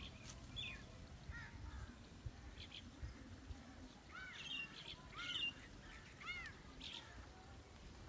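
Faint chirping calls of small birds: short, arching notes, several of them clustered from about halfway through to near the end.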